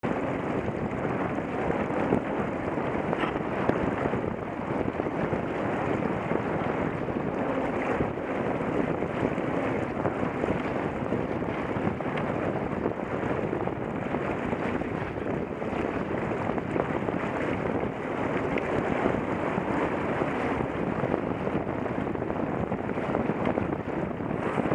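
Steady rushing wind noise on an action camera's microphone, unbroken throughout.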